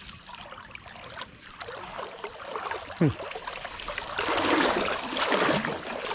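Creek water running and splashing, swelling louder about two-thirds of the way through. A brief falling tone sounds near the middle.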